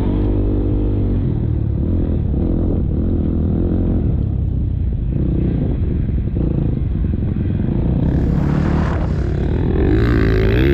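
KTM motocross bike engine revving up and down as it is ridden, with clatter and knocks from the bike over the track. A louder rushing noise comes in twice near the end.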